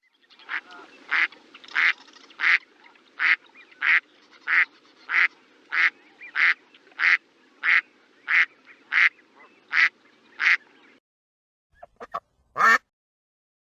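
A duck quacking over and over at an even pace, about three quacks every two seconds, with a faint steady background noise beneath. The quacking stops about eleven seconds in, followed by a few short clicks and one louder short sound near the end.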